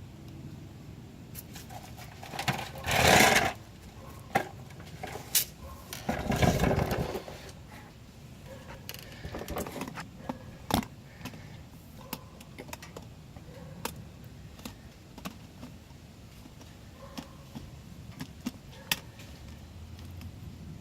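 1990 Chevrolet K1500's 5.7-litre 350 V8 running with a fast ticking from an exhaust leak, over a low rumble. Scattered clicks throughout, and two loud rushing noises about three seconds in and again about six and a half seconds in.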